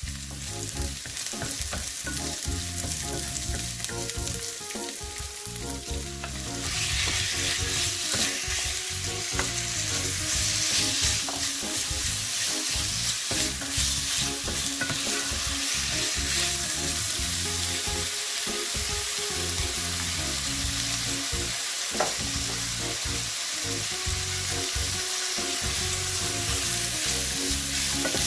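Diced raw chicken frying in hot oil with sliced onion and garlic in a nonstick pan, sizzling steadily as it is stirred and scraped with a wooden spatula. The sizzle gets louder about six seconds in and stays loud.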